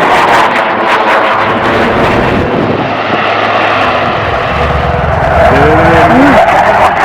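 Loud, steady aircraft engine noise as an aircraft flies past overhead at an air show.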